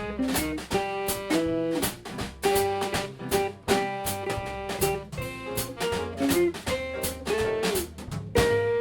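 Live jazz combo playing an instrumental passage: a drum kit keeping time under a lead melody line, with notes that bend in pitch.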